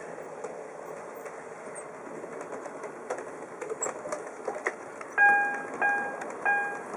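H0-scale model train running on the layout's track: a steady rumble with scattered clicks. About five seconds in, a pitched electronic ding starts repeating at about one and a half strokes a second.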